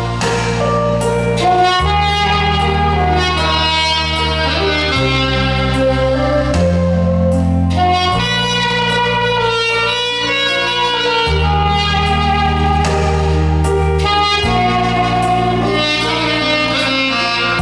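Saxophone playing a slow melody over an accompaniment of long, held bass notes that change every two to three seconds.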